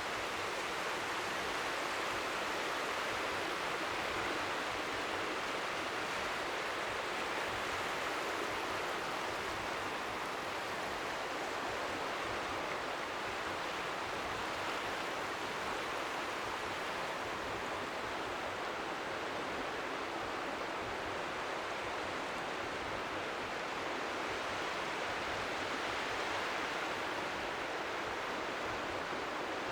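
Steady hiss of strong wind at the seashore, an even white-noise wash with a fluttering low rumble, with small waves lapping faintly at the shore underneath.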